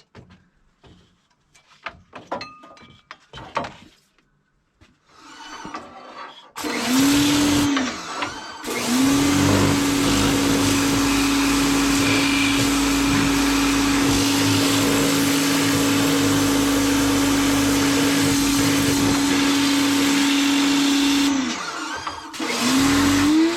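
Electric pressure washer spraying water. The motor spins up, cuts out briefly, then runs steadily with the hiss of the jet for about thirteen seconds, stops, and starts again near the end. Before it come a few seconds of faint clicks and handling noise.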